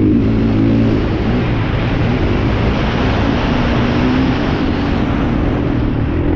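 Motocross dirt bike engines running hard, their pitch wavering up and down as they rev.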